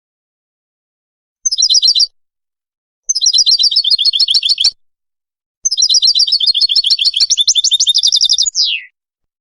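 Caged finch singing in three bursts of rapid trilled notes, the last and longest ending in a falling whistle.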